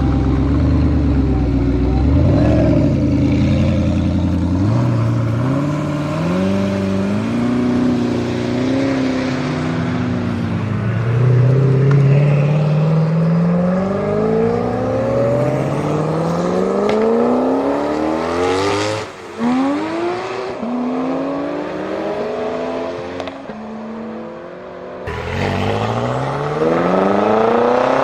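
Sports car engine revving, its pitch rising and falling. From about halfway through it accelerates hard in a series of climbing pulls, each dropping back sharply as it shifts up a gear, with a brief break near the end before another run.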